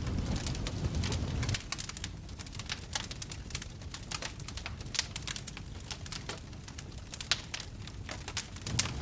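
Wood fire in a fireplace crackling and popping, with many sharp snaps over a soft hiss. A low rumbling roar sounds under it for the first second and a half, then drops away.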